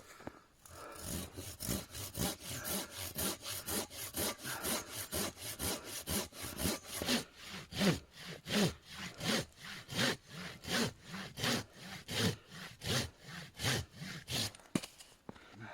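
Hand saw cutting through wood in steady back-and-forth strokes, about two a second, stopping shortly before the end.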